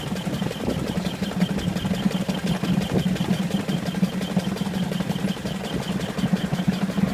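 Miniature Ruston Proctor steam traction engine running along steadily, its working motion and exhaust beating in a fast, even rhythm.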